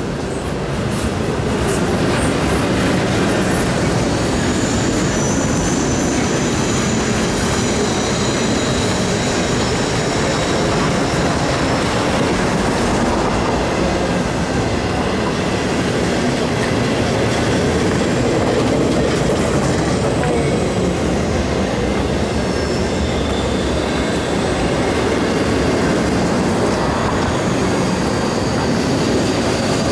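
Double-stack intermodal freight cars rolling past: a steady, loud rumble of steel wheels on rail, with faint high-pitched wheel squeals at times.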